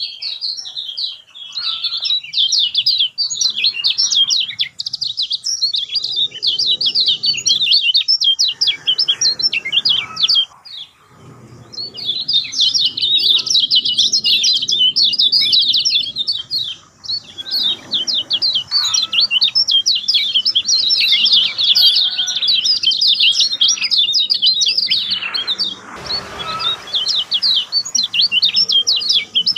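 Lemon-bellied white-eye (kecial kuning) singing a fast, continuous twittering song of high chirps, with brief breaks near the middle and again near the end.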